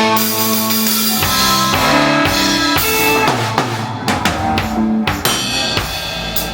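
Rock band playing live through an instrumental passage: held electric guitar notes over a drum kit with bass drum and snare hits.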